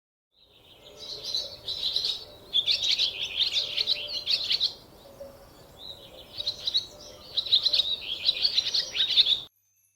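Songbird singing: two long phrases of rapid, high twittering with a short pause between, cut off abruptly near the end.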